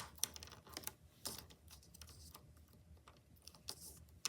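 Faint, irregular clicks and short rustles of plastic pony beads knocking together and plastic lacing sliding through them as the lace is threaded and pulled.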